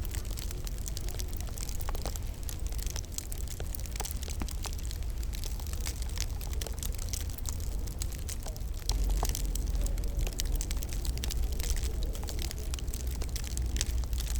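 Wood fire crackling in a fireplace: many small sharp pops and ticks over a low, steady rumble, which grows louder about nine seconds in.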